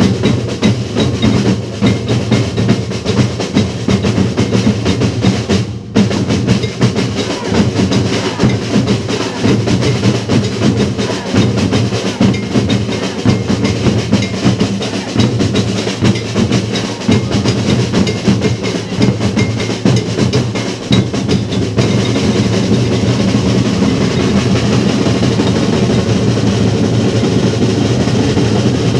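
Drum-led percussion music in a coco groove with dub treatment, dense and rhythmic, dropping out for a split second about six seconds in. From about three quarters of the way through the sound turns steadier and more even.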